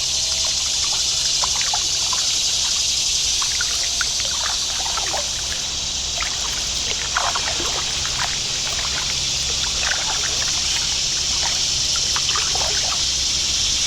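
Kayak paddle dipping and water trickling and dripping off the blades in short, irregular splashes, over a steady high hiss and a low hum.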